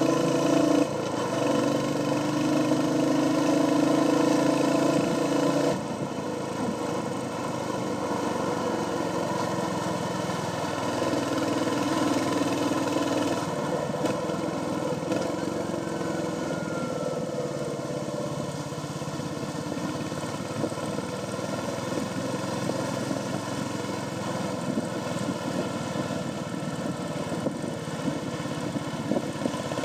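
Royal Enfield Hunter 350's single-cylinder engine running through its stock exhaust on the move. It is louder in the first few seconds, then eases to a steadier, lower cruise about six seconds in.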